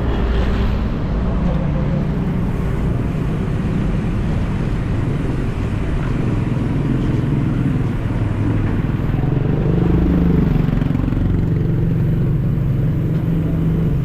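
City street traffic: motor vehicle engines running with a steady low rumble.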